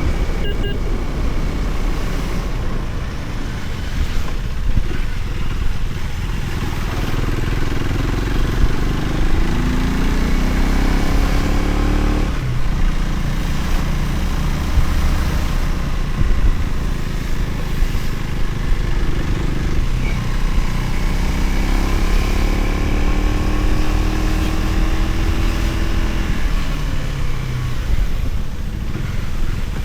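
Motorcycle engine heard from the bike while riding, over a steady rush of wind and road noise. The engine pitch climbs as it accelerates, drops sharply about twelve seconds in as at a gear change, then climbs again and falls away near the end.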